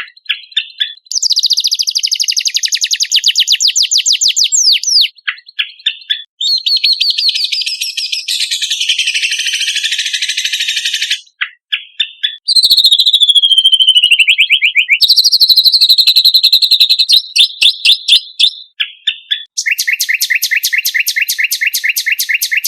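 Songbird song from a bird-training 'masteran' recording: runs of rapid, evenly repeated high chirps and trills in segments that start and stop abruptly, with a falling trill about halfway through.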